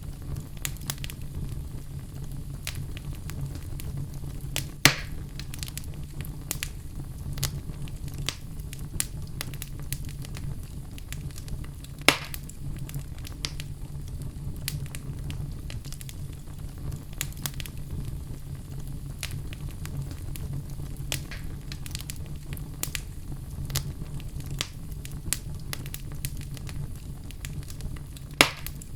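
Wood fire in a fireplace crackling steadily with many small snaps, over a low steady rumble. Three louder pops come about five seconds in, about twelve seconds in and near the end.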